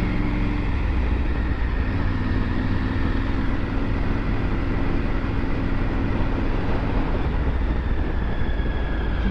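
Triumph Tiger 900 GT's three-cylinder engine running steadily while riding, under a heavy low rumble of wind and road noise.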